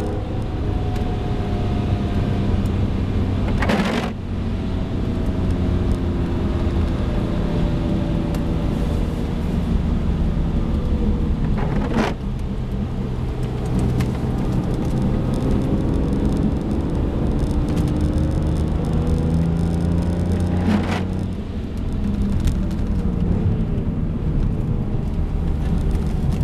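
BMW E46 M3's 3.2-litre straight-six heard from inside the cabin at track pace, its note repeatedly falling and climbing as the driver lifts and accelerates through the corners. Brief sharp clicks come about four, twelve and twenty-one seconds in.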